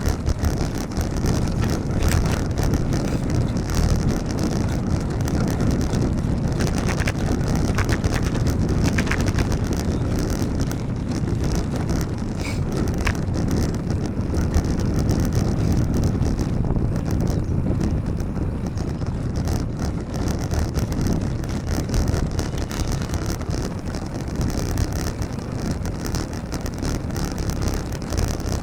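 Wind noise buffeting the microphone of a camera on a moving bicycle: a steady rumble heavy in the low end, with a few faint short clicks now and then.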